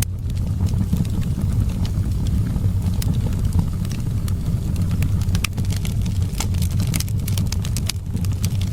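Wood fire crackling, with frequent sharp pops and snaps over a steady low rumble of wind.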